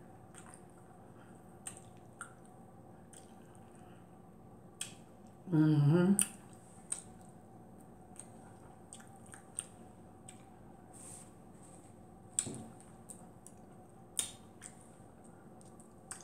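Quiet close-up chewing of a mouthful of cauliflower and broccoli, with scattered sharp mouth and utensil clicks. A brief voiced sound is made about six seconds in.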